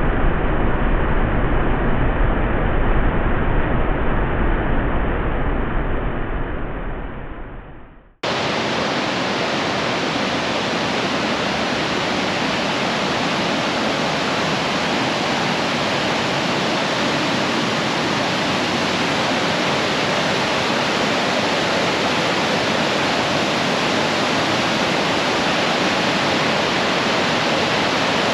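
A waterfall's steady, even rush, starting abruptly about eight seconds in. Before it, a duller rushing noise with a deep rumble fades out.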